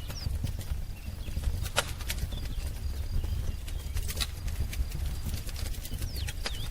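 Wood fire crackling, with irregular sharp pops over a low steady rumble. A few faint bird chirps come in at the start and again near the end.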